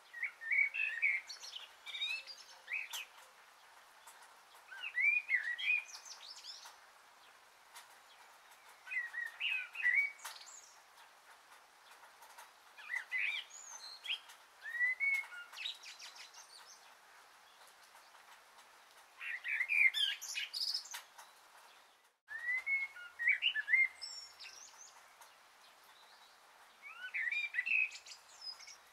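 Songbirds chirping in short bursts of quick, twittering notes that recur every few seconds. A momentary gap in the sound comes about two-thirds of the way through.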